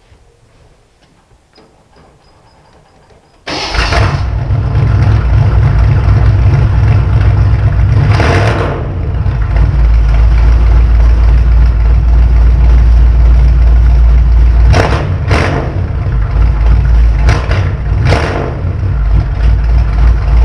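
1956 Ford car engine starting about three and a half seconds in and then running loud through its newly finished exhaust, with several short blips of the throttle later on.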